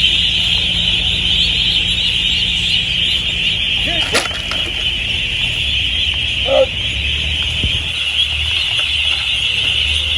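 A dense, steady, high-pitched din from a huge flock of ducks crowded on a boat, with short single calls standing out about four and six and a half seconds in. A boat engine hums low underneath.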